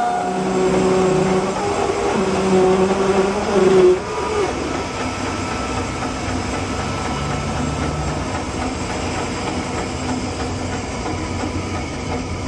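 Portable sawmill running and cutting a walnut log, its engine and blade making a pitched whine that shifts in the first few seconds. About four seconds in the level drops suddenly, and the mill then runs on steadily.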